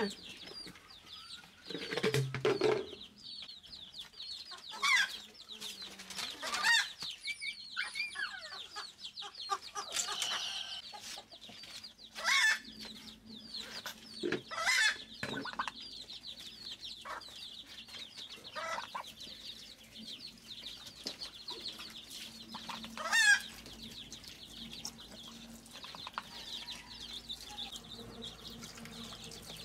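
Chickens: young birds keep up a steady high peeping throughout, and grown chickens break in with louder clucks and calls now and then. The loudest call comes about two-thirds of the way through.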